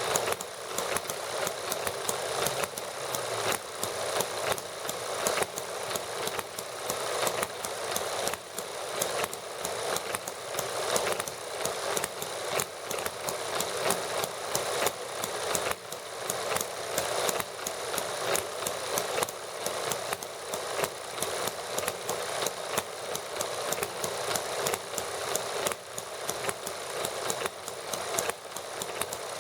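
Small model gasoline engines running together, a fast, unbroken stream of sharp firing pops with little low-end weight.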